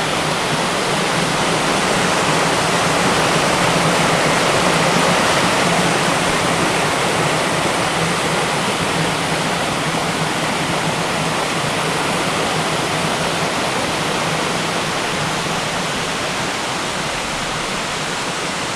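Waterfall on a mountain river, its water roaring steadily close to the microphone.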